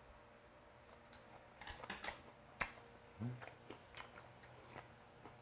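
Faint close-up chewing of a mouthful of raw snakehead sashimi: soft, irregular mouth clicks, starting about a second and a half in, with a brief low hum near the middle.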